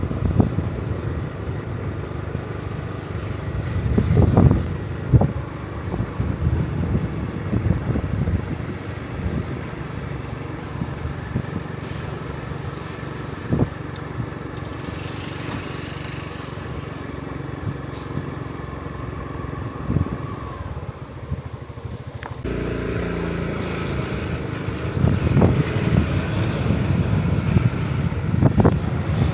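A motor engine running steadily, with the sound changing abruptly about two-thirds of the way through.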